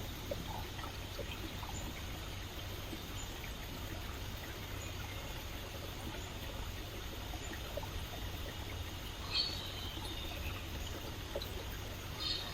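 Stream water flowing and trickling steadily, with two brief high bird calls, about nine seconds in and near the end.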